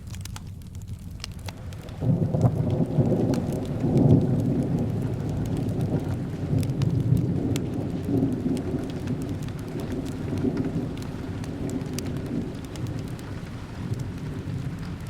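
Thunder rumbling in over rain: a deep rumble starts about two seconds in, peaks soon after and slowly fades. Sharp crackles from a wood fire are scattered throughout.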